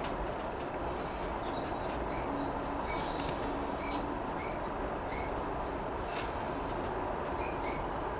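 A small bird chirping: a run of short, high chirps about two a second, then a quick pair near the end, over a steady background hiss.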